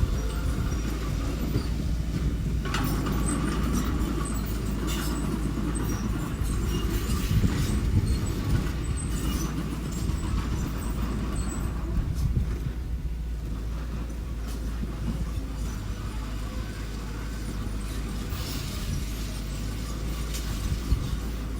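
Diesel engine of a small construction machine running steadily under light load, with scattered metallic knocks and clanks.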